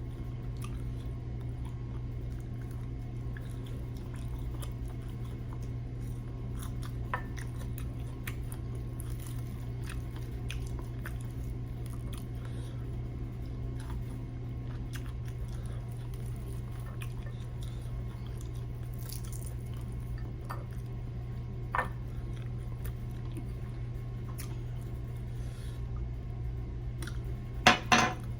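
Someone chewing and biting into crispy fried chicken, with small crunches and mouth clicks over a steady low hum. A sharper, louder crunch comes near the end.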